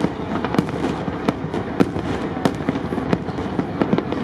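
Fireworks display: aerial shells going off in irregular sharp bangs, two or three a second, over a steady rumble.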